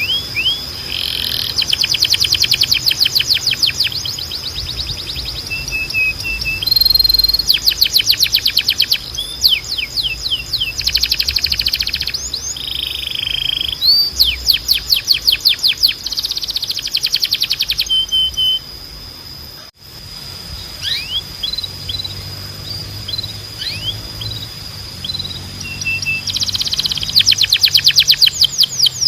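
Timbrado canary singing: long phrases of fast rolling trills alternating with short whistled notes and chirps, over a steady high tone. The song breaks off briefly about two-thirds through, then resumes.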